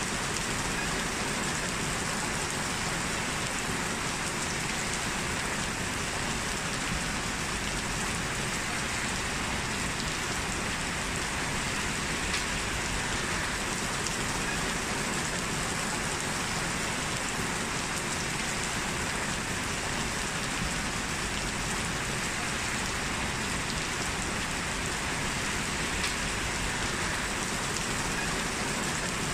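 Steady rain falling, an even hiss with a few single drops ticking out over it.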